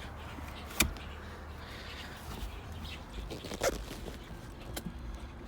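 Third-row seat of a 2016 Honda Odyssey being handled as it is folded: its pull strap and latch are worked, with one sharp click about a second in and a few softer knocks and rustles later.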